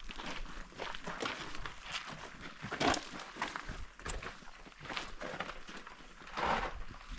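Hikers' footsteps scuffing and crunching over sandstone, in uneven steps, with a louder scrape about three seconds in and another about six and a half seconds in.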